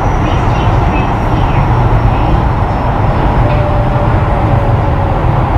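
Keio 7000 series electric train running, heard from on board: a steady rumble of wheels on rail, with faint traction-motor whines slowly falling in pitch.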